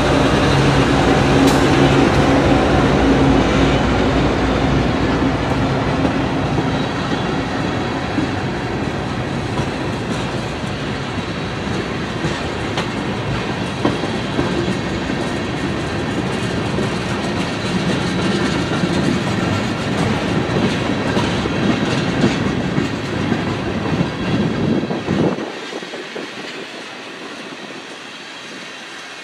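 Diesel-hauled train passing close by: the locomotive's engine hum at first, then the cars rolling past with clickety-clack over the rail joints. The sound drops away abruptly about 25 seconds in, leaving a much quieter background.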